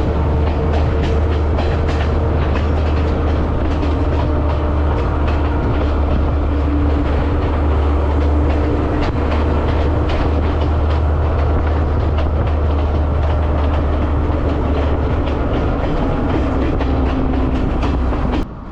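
Passenger train running along the track: a steady low rumble with frequent clicks of the wheels over the rails. It cuts off suddenly near the end.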